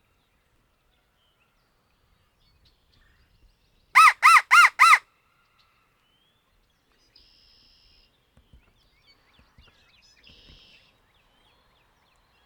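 A crow locator call blown four times in quick succession, loud and close, a turkey hunter's call meant to make a gobbler shock-gobble. Two faint, brief distant calls follow a few seconds later, which the hunters take for a response.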